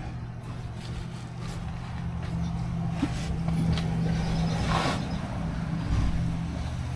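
A steady low engine hum, growing slightly louder, with scattered small clicks and a short rustle about five seconds in.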